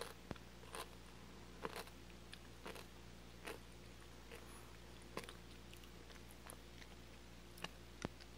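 Faint mouth sounds of chewing a gummy candy with a crispy sugar shell: scattered soft clicks and crunches, a few to a second, over a low background hum.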